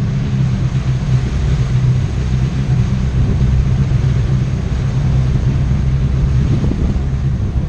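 Motorcycle engine running at a steady speed, with a rush of wind and road noise over it.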